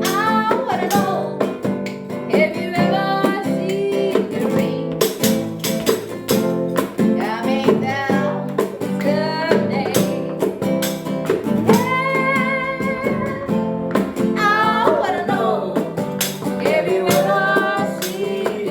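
Acoustic guitar strummed with a voice singing along, sustained sung notes over a steady strummed rhythm.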